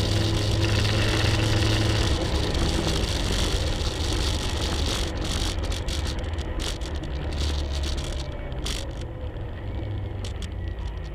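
Race-prepared 1967 Chevrolet Camaro's engine heard from inside the cabin while driving at speed on a track: a steady drone mixed with wind and road noise that eases off over the second half, with scattered clicks and rattles.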